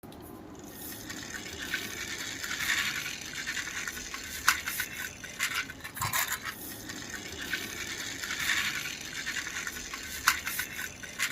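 Small hard objects being handled, clicking and rattling against each other, with a few sharper clicks scattered through.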